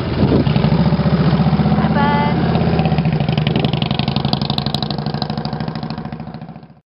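Motorcycle engine running with a fast, even pulse, fading gradually over the last few seconds and then cutting off abruptly. A brief voice is heard about two seconds in.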